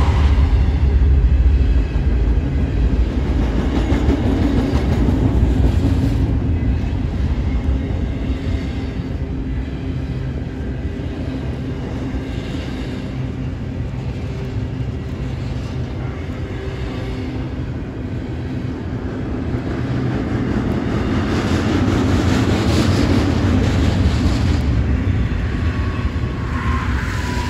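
Double-stack intermodal freight train rolling past. The trailing BNSF ES44DC diesel locomotive's rumble fades over the first couple of seconds, then the container well cars run by with a steady rumble of steel wheels on rail that swells again about three-quarters of the way through.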